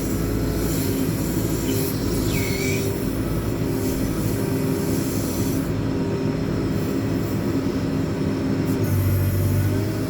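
JCB 4CX backhoe loader's diesel engine running under load while the rear backhoe arm is worked, a steady low drone whose note shifts as the hydraulics are used.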